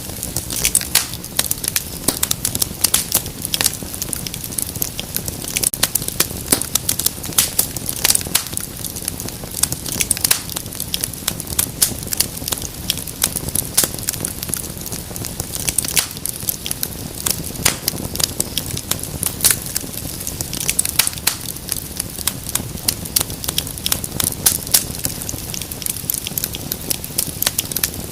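Wood fire in a fireplace crackling, with many small irregular snaps and pops over a low steady rush of the flames.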